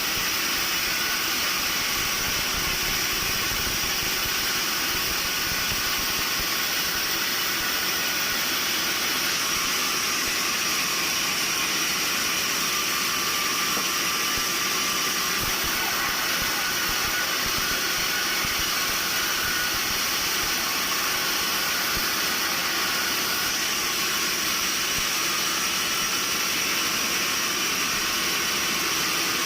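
Sawmill machinery running with a steady, unchanging hissing drone, with no cuts or knocks standing out.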